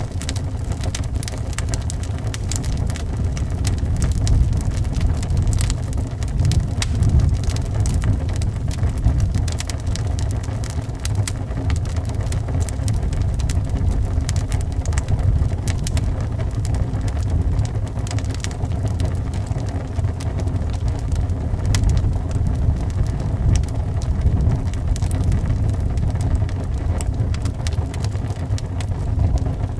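Wood fire crackling with frequent small, irregular pops over a steady low rumble of wind.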